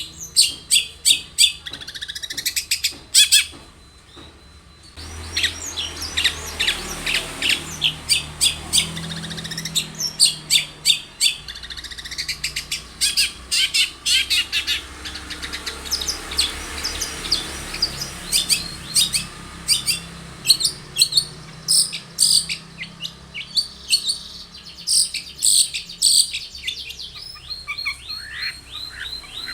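Long-tailed shrike (cendet) singing: rapid runs of short, sharp, chattering high notes, broken by a brief pause about four seconds in and then going on over a faint steady hiss.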